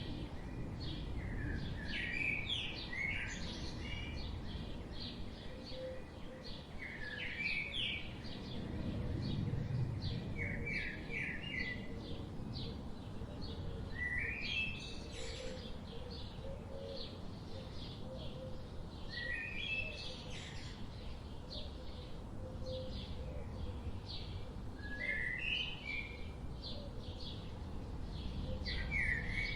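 Forest birds singing: short phrases of quick, rising chirps repeated every few seconds, with fainter ticking calls between them, over a steady low background hiss.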